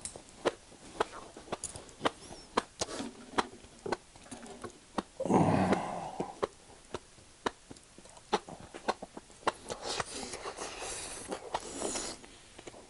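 Close-miked wet chewing of enoki mushrooms in spicy sauce, with sharp mouth clicks throughout. A loud breathy burst comes about five seconds in, and a longer breathy stretch near the end.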